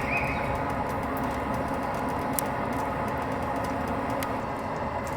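Stove fire burning: a steady rushing noise with frequent small crackles.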